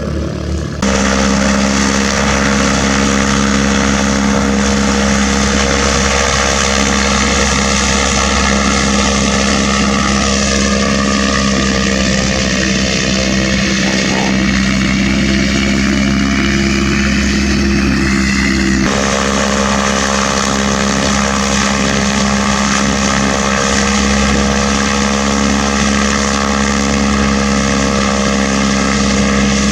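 Propeller airplane's piston engine running steadily, an even droning tone with many harmonics. The sound changes abruptly about a second in and again about nineteen seconds in.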